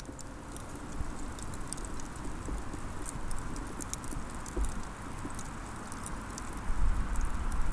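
Wood fire burning, crackling with frequent sharp pops over a steady hiss. A low rumble grows louder near the end.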